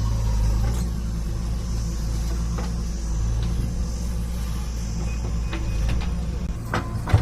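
Heavy diesel engine running steadily under load during sand loading, with a few sharp knocks near the end.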